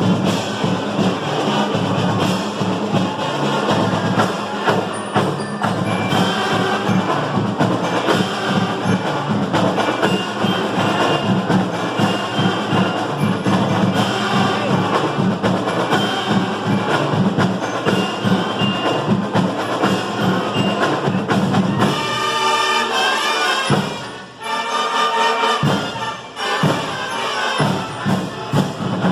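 Marching band playing, with drums and percussion under the music; the playing breaks off briefly about 24 seconds in, then carries on.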